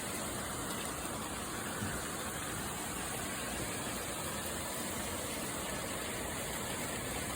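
Torrential hurricane rain pouring down in a steady, even hiss, with little wind.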